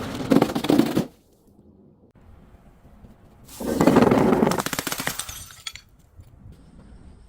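Glass being crushed and shattered: two bursts of dense crunching and crackling, the first ending about a second in, the second lasting about two seconds midway.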